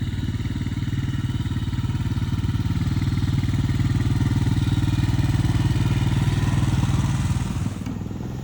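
Honda Recon ATV engine running steadily, with a low pulsing engine note that grows a little louder and then drops off a little before the end.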